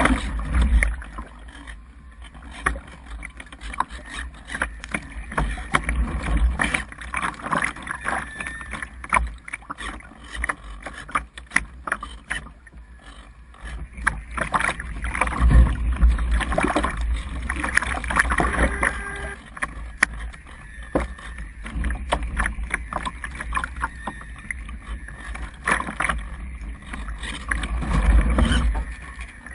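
Strong gusty wind buffeting the microphone: a low rumble that swells and drops off every few seconds, with crackling.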